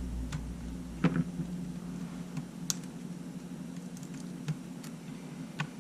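A few light, scattered clicks and taps of small tools and plastic or metal parts as a Sony A7 camera body is being taken apart, over a steady low hum.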